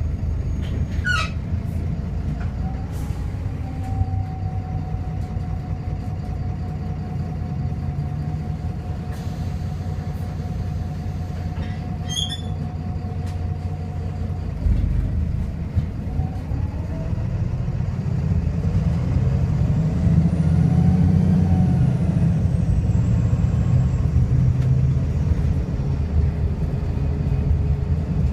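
VDL SB200 bus's diesel engine and Voith automatic transmission running, with a steady whine through the first half. About halfway there is a short sharp sound, then the engine and gearbox pitch rises and falls as the bus pulls away, loudest about two-thirds through. The uploader describes this bus as misfiring and very unhealthy.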